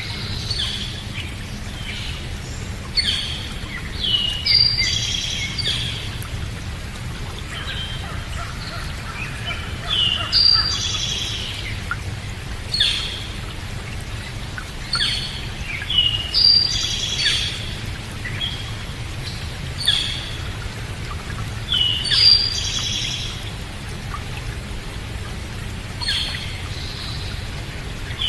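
Birds chirping in short, sharp calls, a new burst every second or two, over a steady low rumble.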